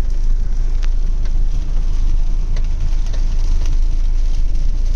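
Heavy, wind-driven rain, a steady hiss with scattered sharp drop ticks over a constant low rumble.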